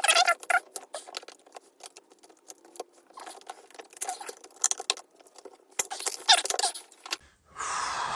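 Light clicks, rattles and scrapes of hands and tools handling parts in an opened MacBook Pro's aluminium case as the old glued-in battery is lifted out, coming in irregular clusters. Near the end the sound cuts to a steady hiss.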